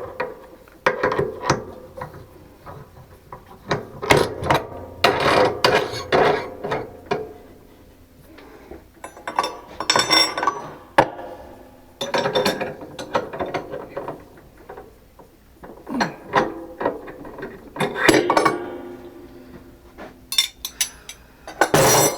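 Metal lathe tooling being handled during a tool change: irregular bursts of clanking, rattling and ratchet-like clicking from metal parts and hand tools, some clanks ringing briefly.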